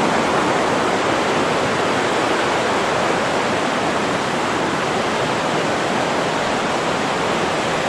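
Buttermilk Falls, a cascade on the Raquette River, rushing over rocks in a steady, loud wash of white noise.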